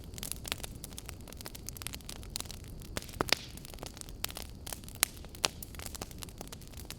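Wood fire crackling in a fireplace: a steady run of small snaps and pops over a low rumble and hiss, with a few sharper, louder pops, the loudest about three seconds in.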